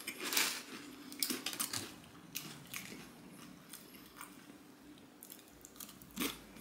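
Close-up chewing of crunchy tortilla chips, with irregular crunches throughout and a fresh bite near the end.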